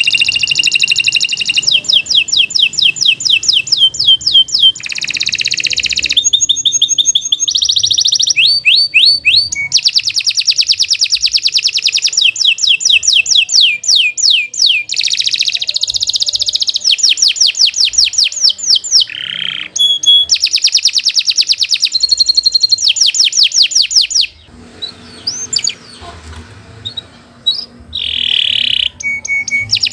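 Domestic canary singing a long, loud song of rapid rolling trills and repeated chirping phrases, with a brief lull about 24 seconds in before it picks up again.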